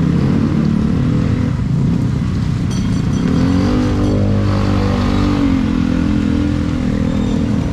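A motor vehicle's engine running close by, its pitch rising about three seconds in as it revs, then holding steady.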